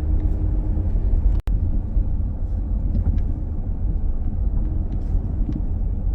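Dodge Grand Caravan minivan driving, a steady low rumble of road and engine noise, with a brief dropout about a second and a half in.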